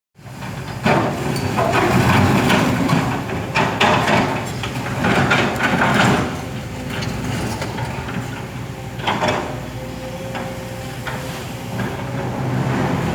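A Kobelco excavator working, its diesel engine running steadily under load, with irregular clanks and scraping bursts of the bucket digging earth and rock. A steady whine joins in about nine seconds in.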